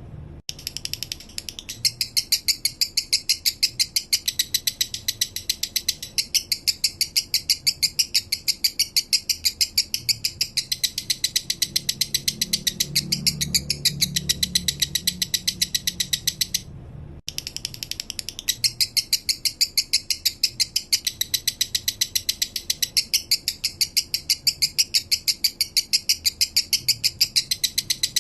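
Male lovebird singing its 'minor' chattering song: a long, even run of rapid high chirps, about nine a second. It breaks off briefly just after the start and again for about half a second past the middle.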